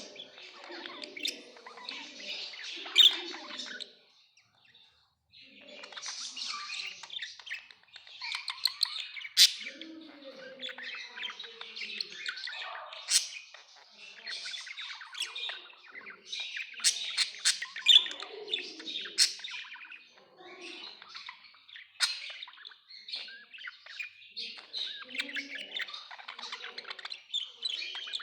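Budgerigars chattering and warbling together, with sharp, loud squawks now and then and a short pause a few seconds in.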